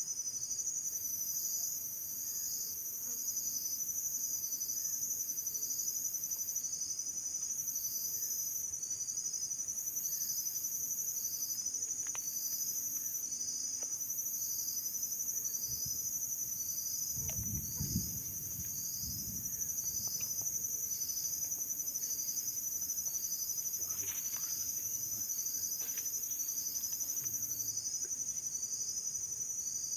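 A steady, high-pitched chorus of insects chirring, with a pulse about twice a second underneath the continuous tone. A brief low thump and rumble comes a little past the middle.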